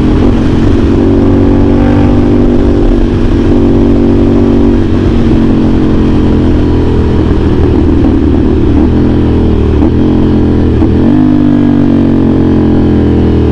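CFMOTO 450SR S parallel-twin engine through an aftermarket AR exhaust, ridden under steady throttle. The note dips briefly a few times about two-thirds through, then the revs climb near the end.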